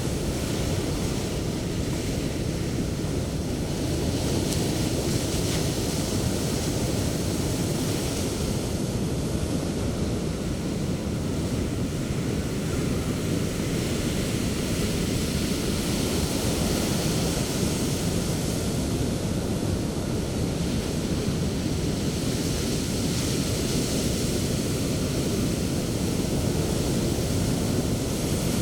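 Sea waves breaking on a beach: a steady low rush of surf, with the hiss of the white wash swelling and fading slowly.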